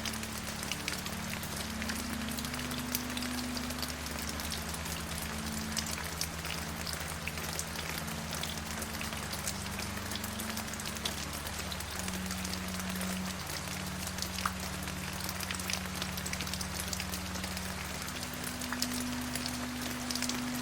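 Steady rain, an even hiss full of small sharp drop ticks. Underneath runs a low sustained drone whose pitch shifts every few seconds.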